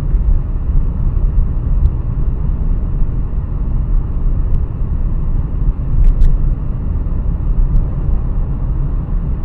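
Car driving, heard through a dashcam: a steady low rumble of road and engine noise.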